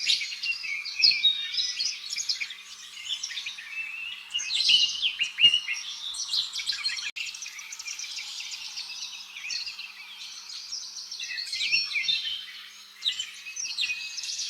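Birds chirping: a dense run of quick, high chirps and short whistles that goes on without a break, apart from a brief dropout about seven seconds in.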